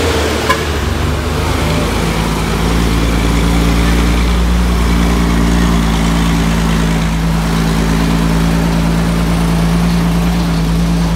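Heavy diesel truck engine running at steady revs as it climbs a steep hill, a constant low drone with a steady higher tone above it. A short click about half a second in.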